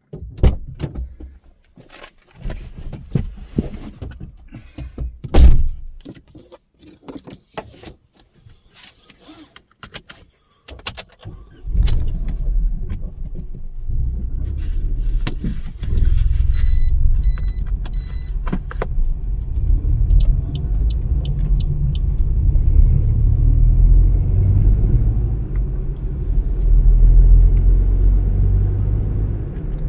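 Knocks, clicks and rattles for about ten seconds, the loudest a thump about five seconds in. Then a car's low engine and road rumble starts suddenly and runs on steadily, with four short electronic beeps from the car just past halfway.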